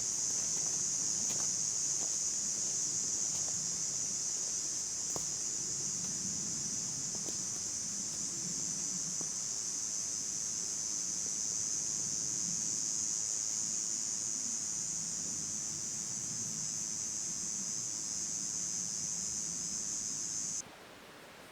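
A steady, unbroken high-pitched drone of an insect chorus, with faint rustling and a few small ticks beneath it; it cuts off suddenly near the end.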